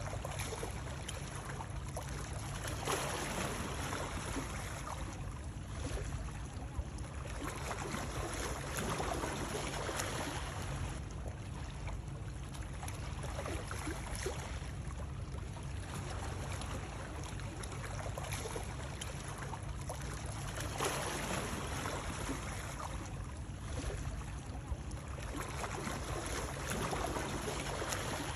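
Continuous rushing water over a steady low rumble, swelling and easing every few seconds like water lapping or sloshing.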